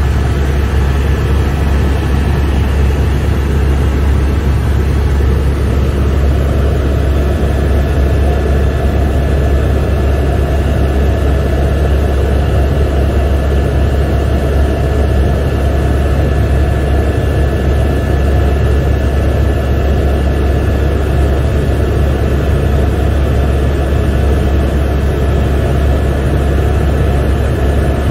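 Helicopter in flight, heard from inside the cabin: a loud, steady low drone of rotor and engine, with a thin steady whine above it.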